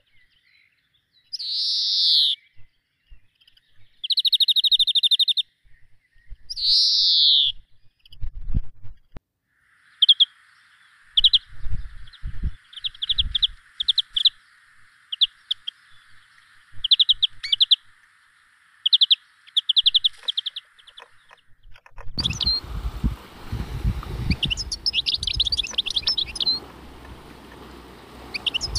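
Birds calling: four loud calls about a second long in the first eight seconds, one of them trilled, then a long run of short, quick chirps. About three-quarters of the way in, a rushing noise comes in under the chirps.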